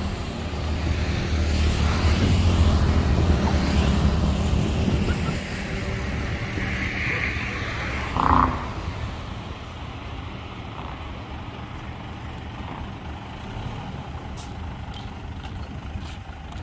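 Heavy dump truck diesel engine running, loud for the first five seconds, then easing down to a lower, steady rumble. A brief hiss of air comes about seven seconds in, with a short sharp sound just after, typical of a truck's air brakes.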